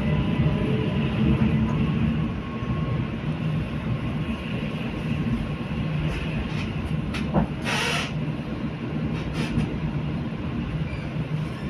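Passenger train running with a steady rumble and low hum, a few light clicks, and a brief hiss about eight seconds in.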